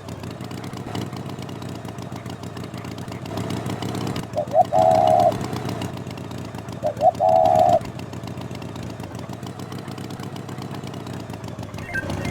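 Tractor engine running steadily, with two horn honks about a third and about halfway through, each a short beep followed by a held tone.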